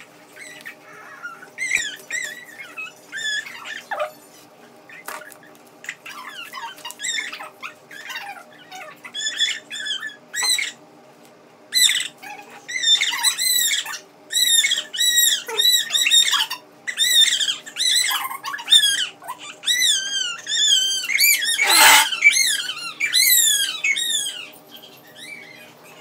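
A bird chirping and warbling in quick, high calls that swoop up and down, getting busier and louder in the second half, with a brief harsh burst near the end. A steady low hum runs underneath.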